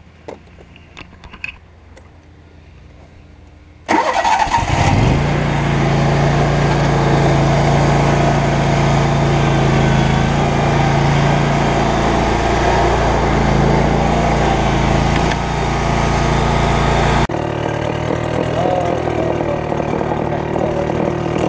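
RedMax gas leaf blower's small engine starting about four seconds in with a quick rising rev, then running steadily at high speed with a loud rush of air. A few light clicks come before it starts, and late on the sound changes abruptly and drops a little in level.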